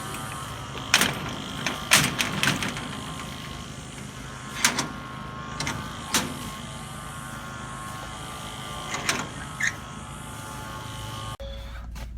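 A steady engine hum with scattered sharp knocks and clacks, about half a dozen spread through it. It cuts off abruptly near the end.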